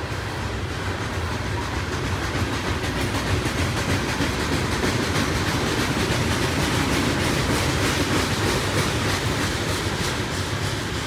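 Loaded ballast train's open-top hopper cars rolling past: steady rumble of steel wheels on rail with a continuous run of repeated wheel clicks.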